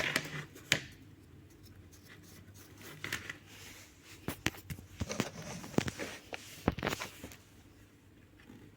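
Scattered clicks, knocks and rustling from handling a new electric fan and its packaging, with a busier stretch of rustling and knocks about five to seven seconds in.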